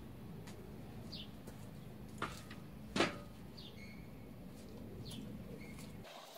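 Birds chirping in short, scattered calls over a faint low rumble, with a sharp knock about three seconds in and a lighter one just before it. The rumble stops near the end.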